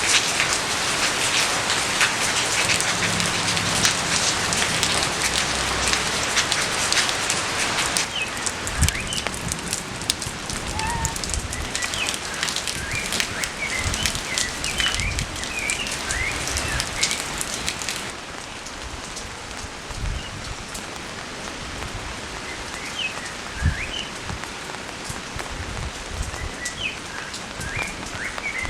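Steady rain falling, a dense patter of drops. It turns lighter in two sudden steps, about a third and two-thirds of the way in, and small birds chirp through the later part.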